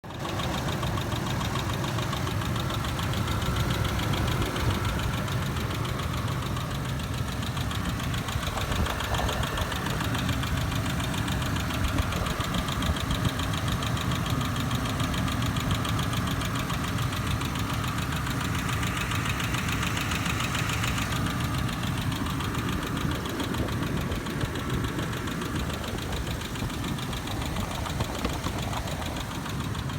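2007 Ford Explorer Sport Trac engine running steadily with a fast, even knocking, the noise its owner is asking for help with. A higher-pitched sound joins in for a couple of seconds past the middle.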